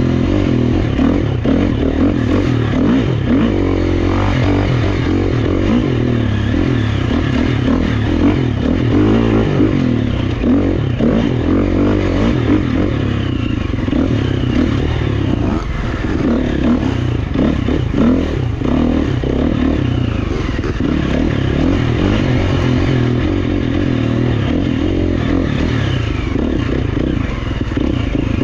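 Gas Gas EX350F's single-cylinder four-stroke dirt bike engine running hard on trail, revving up and down continuously as the throttle is worked, with clatter and scraping from the bike over rough ground.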